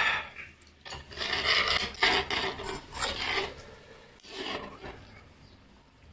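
Crispy fried chicken crunching as it is bitten and chewed close to the microphone, in a run of rasping bursts that tails off after about three and a half seconds, with one more crunch about four and a half seconds in.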